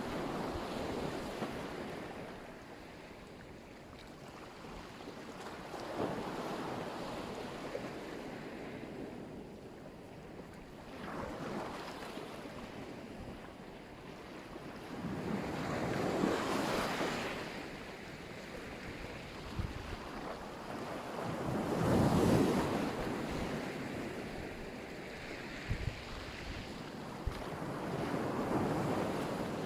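Sea waves breaking and washing on the shore, swelling every five or six seconds, the two biggest about halfway through and two-thirds of the way in. Wind buffets the microphone.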